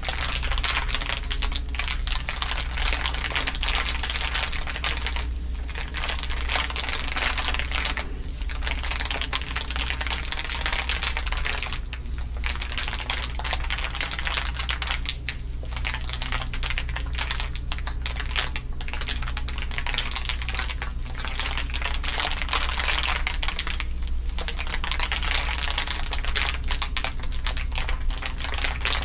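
Layered crinkling: a dense, continuous crackle of many small crinkles, over a steady low hum.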